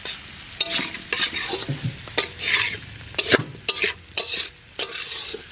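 A spoon stirring cauliflower and potatoes as they fry in spiced oil in a pan, the vegetables being fried down with the spice paste: repeated scraping swishes with sharp clicks of the spoon against the pan.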